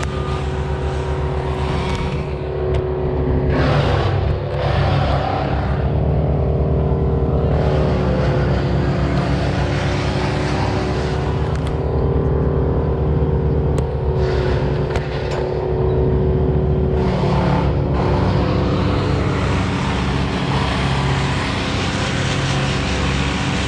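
An engine running steadily close by, with a few brief surges.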